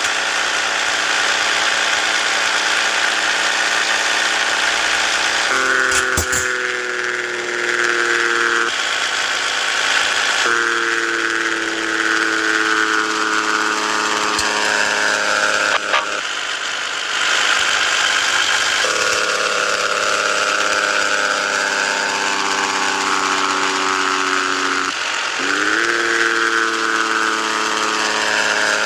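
Scania S 450 truck's inline-six diesel engine running under load, heard from the cab. Its pitch sinks slowly over stretches of several seconds and is broken a few times by short gaps, like gear changes. About 25 seconds in, the pitch dips and then climbs quickly again.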